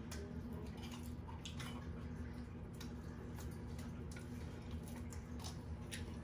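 Steady low hum in a small room, with faint scattered clicks and smacks of children chewing pizza.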